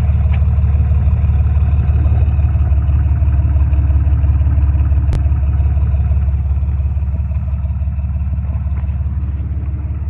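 Jeep TJ's 4.0 straight-six idling steadily with a deep, loud exhaust rumble through a Cherry Bomb glass pack, with the third catalytic converter deleted.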